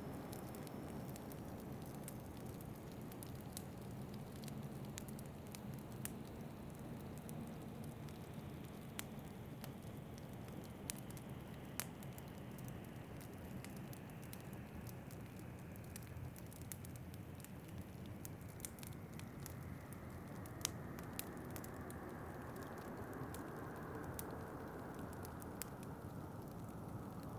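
Fireplace crackling, with scattered sharp pops and snaps, over a steady rush of winter wind whose pitch slowly sinks and shifts.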